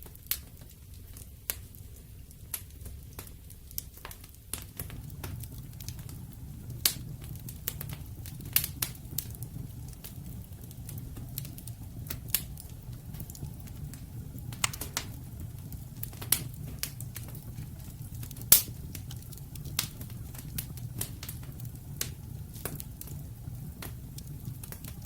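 Wood fire of burning logs crackling, with sharp irregular pops over a steady low rumble of flame. The rumble grows a little fuller about four seconds in, and one pop late in the middle stands out loudest.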